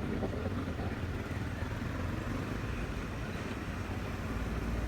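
Motorcycle engine running steadily, a low drone mixed with rushing noise on the microphone.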